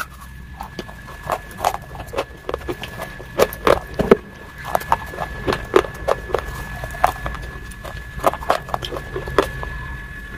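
Close-miked crunching and chewing of a crunchy roll: many sharp, irregular crackles, a few of them loud. A faint steady high tone runs underneath.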